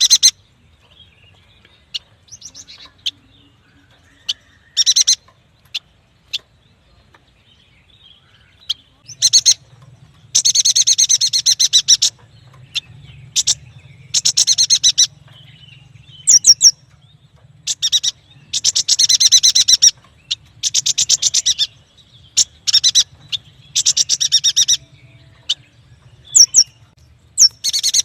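Yuhina singing: loud bursts of rapid, buzzy trilled notes, each a second or two long, repeated with short gaps and sharp single chirps between them. The bursts come more often and run longer from about nine seconds in.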